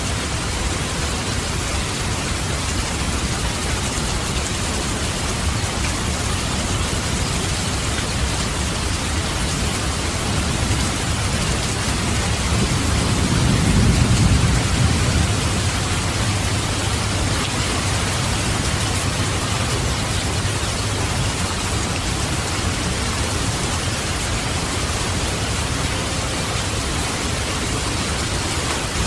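Steady heavy rain with a low roll of thunder that swells and fades in the middle.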